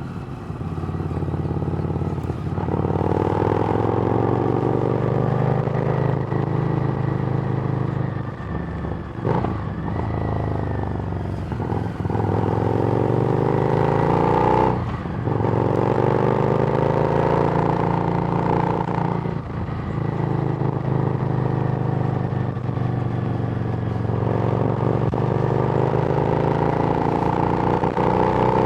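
Harley-Davidson Street Rod's 750 cc V-twin running through a Screamin' Eagle exhaust while riding. The revs climb in several runs, each broken by a short dip as it shifts gears.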